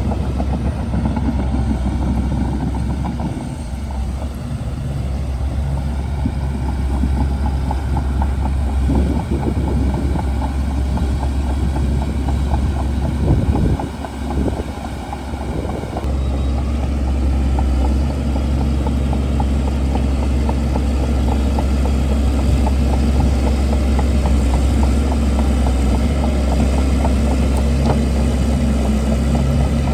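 Shantui DH17C2 crawler bulldozer's diesel engine running under load, a steady heavy rumble with a dense clatter over it; the sound shifts abruptly about halfway through.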